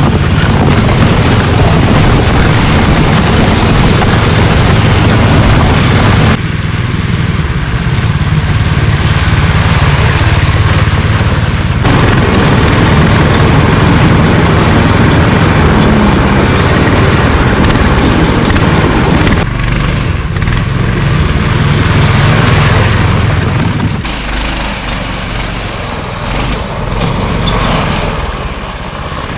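Engine of a 20-horsepower Rybak motorized snow tow running under load as the machine is driven, loud and steady, with abrupt changes in its sound several times and somewhat quieter near the end.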